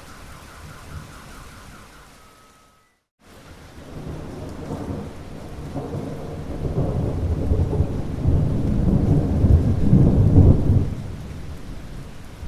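Rain falling with a faint repeating tone that fades out, then a brief silent cut about three seconds in. Rain comes back with a long rumble of thunder that swells to its loudest and dies away near the end.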